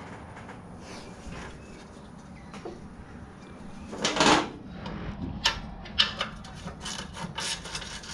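Hand-tool and metal handling noise on a mini bike's engine mount: a loud scrape about four seconds in, then scattered sharp clicks and knocks as the mount bolts are worked loose and the engine is shifted.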